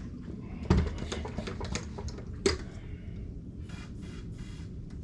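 Scattered light clicks and two sharp knocks, one about a second in and one about two and a half seconds in, then a brief hiss near the four-second mark.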